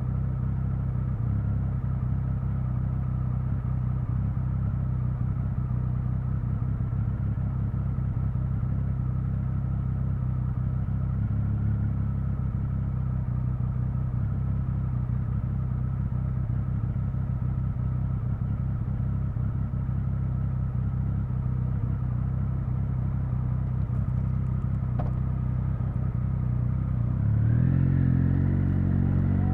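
Triumph Speed Triple 1050's inline three-cylinder engine idling steadily, then revving up near the end as the bike pulls away.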